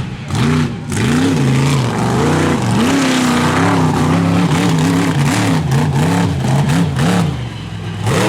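Monster truck engine revving hard, its pitch swinging up and down again and again in quick blips, with a few sharp cracks in the last seconds.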